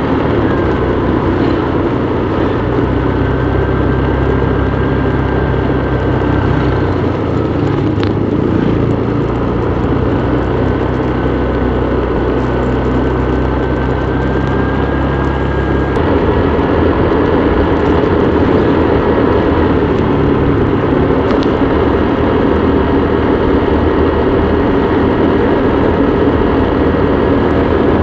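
Motorbike engine running steadily under way, with road and wind noise; the engine's low note changes abruptly about halfway through.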